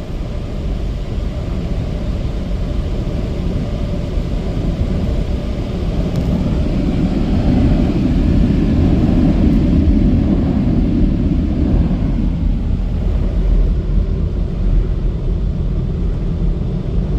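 The air-dryer blowers of a touchless automatic car wash, a steady rushing blast of air on the car during the power-dry stage, growing louder in the middle and then easing off.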